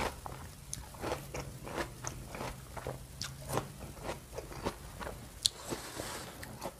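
Crunchy chewing of a mouthful of crisp water apple (wax apple, jambu air), a run of short crisp crunches, with one sharp click about five and a half seconds in.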